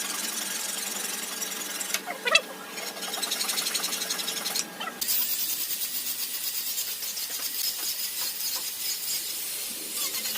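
A power tool working wood, making a steady, high, noisy rasp. It breaks off briefly about two seconds in and again just before five seconds, then runs on evenly.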